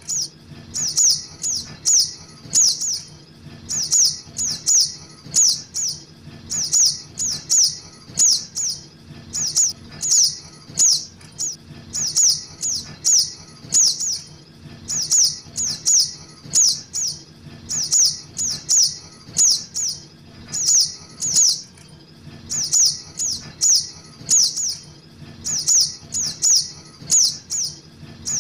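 Juvenile sogok ontong lure call: short, high chirps that each fall in pitch, repeated in quick runs of three to five with short pauses between runs.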